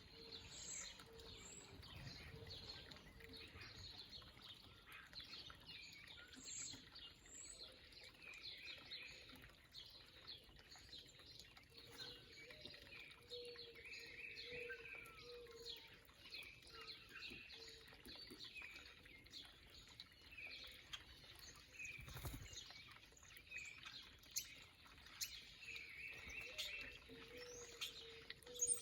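Faint backyard songbirds chirping and calling: many short, quick chirps and some thin high notes, with runs of short low notes at times, over a steady background hiss.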